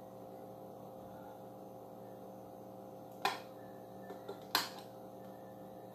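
Two sharp clicks about a second apart, with a fainter tick between them, over a steady low electrical hum.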